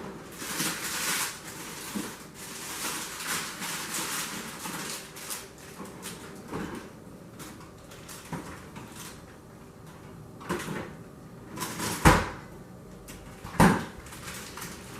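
Kitchen handling noise: rustling and light clatter as food and containers are moved about. Near the end come two sharp knocks about a second and a half apart.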